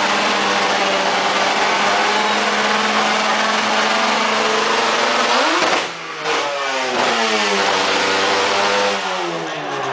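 A car engine held at high revs, rising further in pitch just past the middle and dropping out for a moment, then falling back in pitch, with a second fall near the end.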